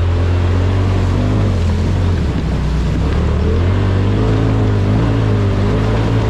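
Side-by-side UTV engine running steadily while the vehicle is under way on a trail; its pitch wavers and climbs a little from about three seconds in.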